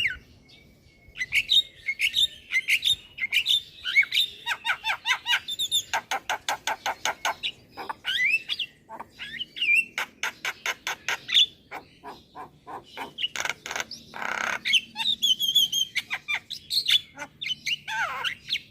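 Javan myna song: rapid trains of dry clicks and rattles mixed with whistled notes that glide up and down, and harsh squawking calls.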